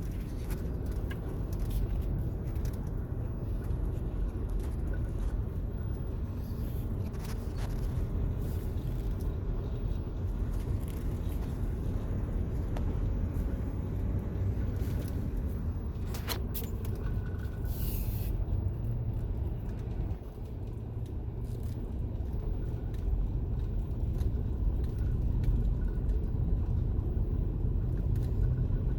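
Car driving at low speed, heard from inside the cabin: a steady low rumble of engine and tyres, with a couple of brief ticks or rattles about halfway through.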